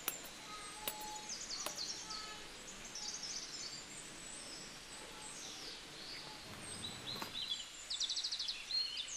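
Small birds chirping and trilling in the background over a steady hiss, with a fast high trill near the end. A few sharp clicks sound in the first two seconds.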